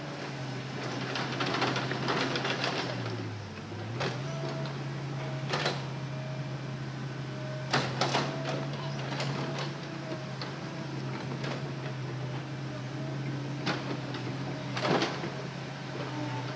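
Hitachi Zaxis excavator's diesel engine running steadily under hydraulic load, its pitch dipping briefly a few seconds in, with a scattering of sharp knocks and clatters from the work.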